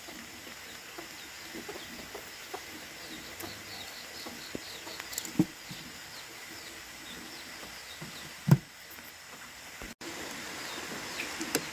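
A few light knocks and clicks over a steady background hiss, with two louder knocks about five and eight and a half seconds in. Faint short high chirps are heard in the middle.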